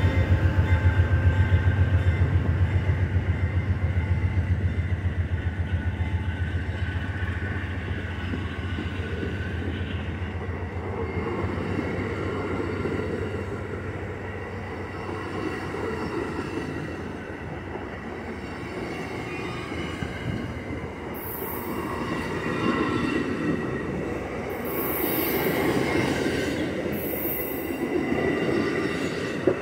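Train passing: a locomotive's deep engine drone with a fast pulse fades away over the first dozen seconds. Railcars then roll by with steady wheel and rail noise, and brief high-pitched wheel squeals come several times near the end.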